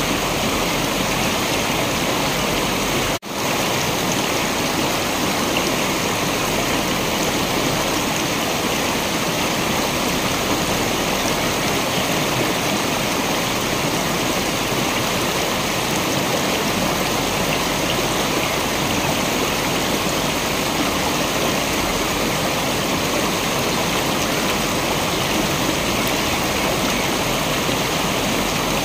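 Steady rushing water of a waterfall, an even full hiss with no rhythm. The sound cuts out for a split second about three seconds in, then resumes unchanged.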